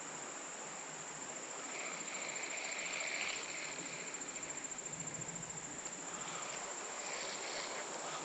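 Insects, crickets or katydids, trilling steadily at a high pitch over a background hiss, with a brief swell of louder noise about two to three seconds in.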